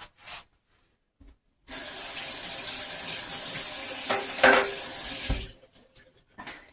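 Tap water running into a kitchen sink for about three and a half seconds, starting a little under two seconds in and then shut off, with a brief louder splash near the middle.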